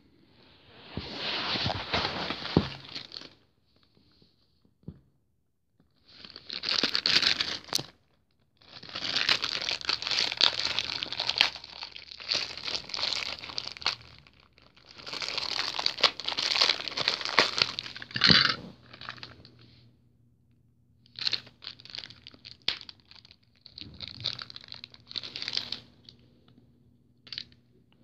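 Packaging being handled and unwrapped: several spells of crinkling and tearing, the longest about five seconds, then shorter, lighter rustles near the end.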